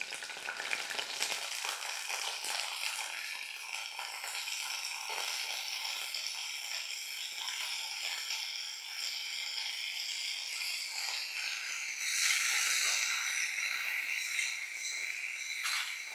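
Small green husthikayi berries frying in hot oil in a kadai: a steady sizzle with fine crackling, growing louder about twelve seconds in.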